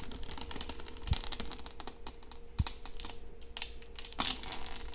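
Packaging on a new 3D printer being worked loose slowly by hand: a dense, uneven run of small clicks and crackles, with a faint steady hum underneath.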